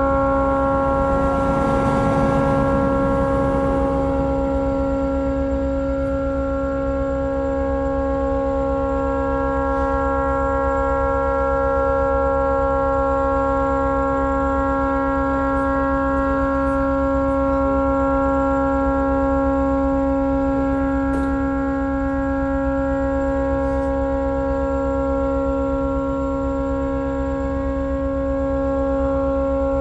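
Tugboat horn stuck on, blowing one unbroken steady note with strong overtones, because the horn had malfunctioned and would not shut off. A brief rush of noise swells and fades in the first few seconds.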